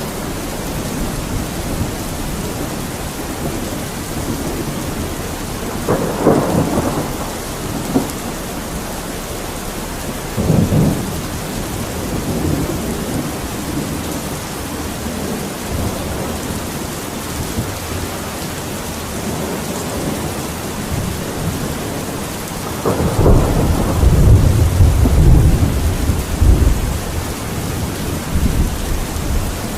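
Steady rain falling, with several low rumbles over it; the longest and loudest rumble comes about 23 seconds in and lasts a few seconds.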